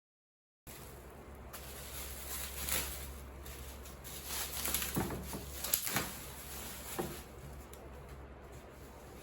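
Objects being handled and set down on a work surface: a few light knocks and rustles over a low steady hum.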